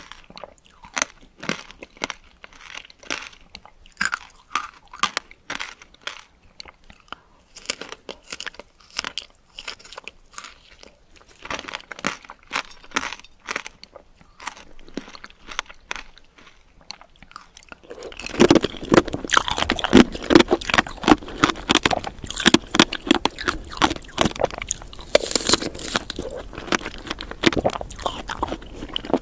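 Close-miked biting and chewing of candied fruit, its hard sugar coating giving crisp, separate crunches. About 18 seconds in the crunching and chewing turn suddenly louder and denser.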